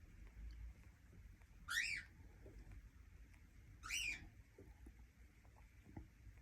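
Cockatiel calling: two short chirps about two seconds apart, each a quick rising-then-falling note.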